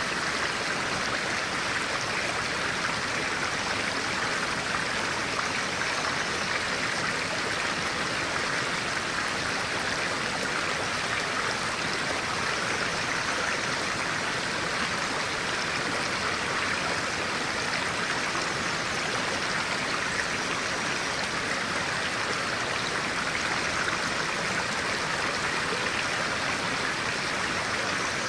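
A stream of clear water running steadily in an unbroken rush.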